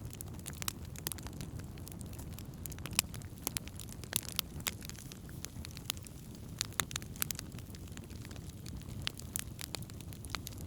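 Wood campfire burning: a steady low rumble of the flames with irregular sharp crackles and pops from the burning wood.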